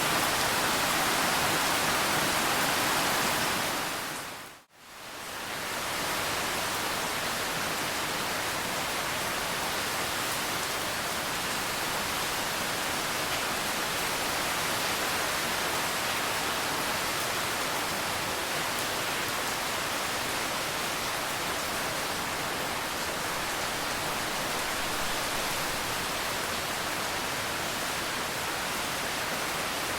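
Steady rain, an even dense hiss. About four seconds in it fades away to near silence and straight back in, slightly quieter afterwards.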